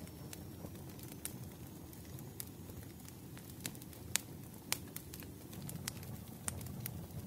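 Wood fire crackling in a fireplace: irregular sharp pops and snaps over a steady low rush.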